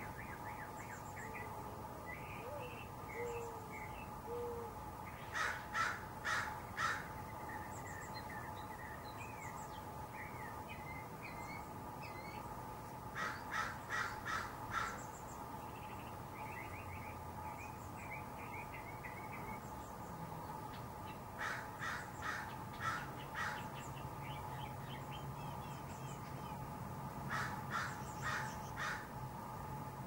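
Backyard birds: one bird gives four loud bursts of four or five harsh calls each, spaced several seconds apart, over softer chirping from small birds. A faint steady hum runs underneath.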